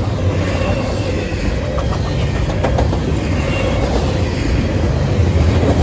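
Double-stack intermodal container train rolling past: a steady rumble of steel wheels on rail from the well cars, with a few sharper clicks about halfway through.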